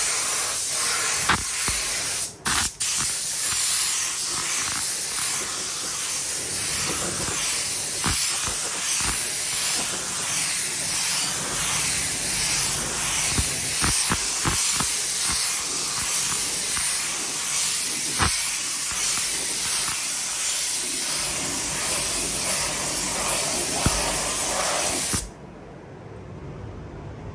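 Compressed-air paint spray gun spraying, a steady loud hiss with a couple of brief trigger releases near the start, cutting off about 25 seconds in.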